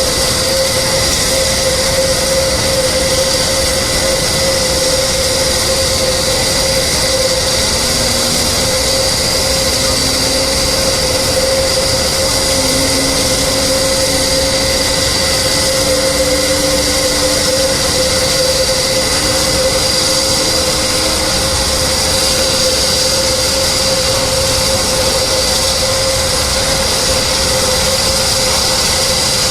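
Jet engine running steadily, a loud rushing noise with a constant high whine, and a fainter tone slowly rising in pitch through the middle.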